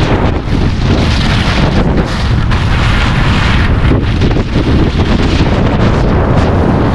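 Heavy wind buffeting on the microphone, with a steady rushing noise, as a skier descends at speed.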